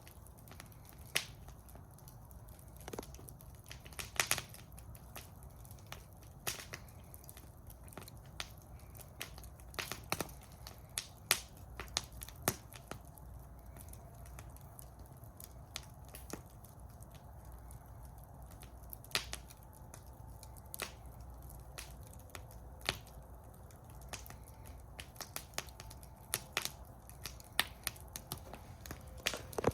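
Wood fire in a metal fire bowl crackling, with irregular sharp pops and snaps over a low, steady rumble of burning.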